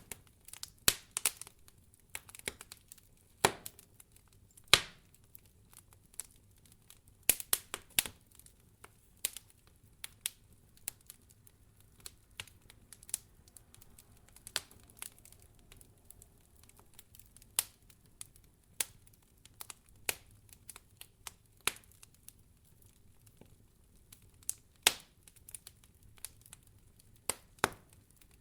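Wood fire crackling in a fireplace: irregular sharp pops and snaps, some in quick clusters, over a faint low background hum.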